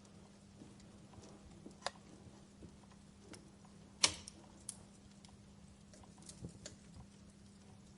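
Wood fire crackling in a fireplace: sparse, irregular pops and ticks from burning logs, the loudest a sharp pop about halfway through, over a faint steady low hum.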